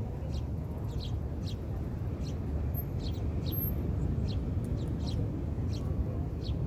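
Short, high bird chirps, two or three a second at irregular intervals, over a steady low rumble.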